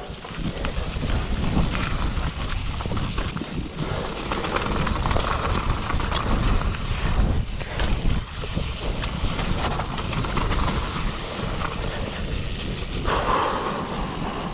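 Wind buffeting a helmet-mounted action camera's microphone as a downhill mountain bike rattles and knocks over rough, wet trail at speed.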